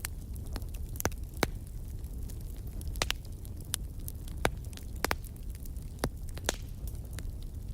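Wood fire in a fireplace crackling: sharp irregular pops and snaps over a steady low rumble of the flames.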